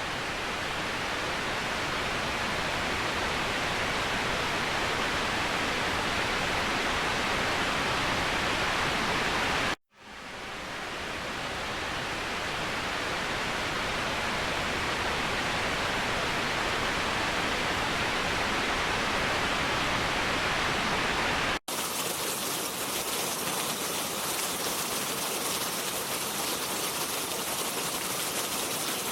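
Waterfall: a steady rush of falling water. About ten seconds in it cuts out for a moment and swells back up, and two-thirds of the way through it changes abruptly to a thinner, hissier water sound with less low rumble.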